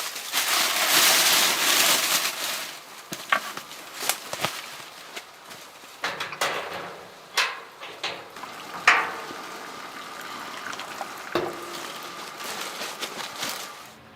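A loud sizzling hiss that swells for about two seconds and then fades, followed by scattered knocks and clinks.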